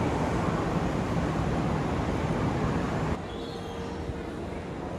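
Kintetsu 'Blue Symphony' limited express train pulling away along the platform: a steady rolling rumble of wheels on rails. About three seconds in it cuts off abruptly to a quieter background with a faint steady hum and a brief high tone.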